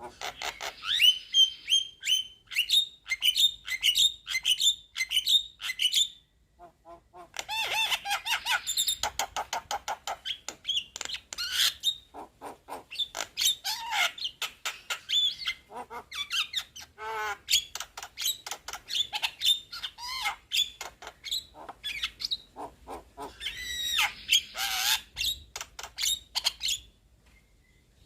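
Young black-winged myna (jalak kebo) singing a fast, chattering run of sharp notes and short whistles. It pauses briefly about six seconds in and stops again near the end.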